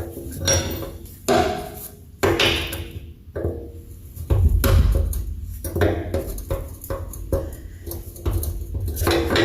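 Steel wrenches clinking and clanking against a bolt and bracket on a pickup's rear suspension as a wrench is tried on the bolt, with irregular metallic taps and rattles.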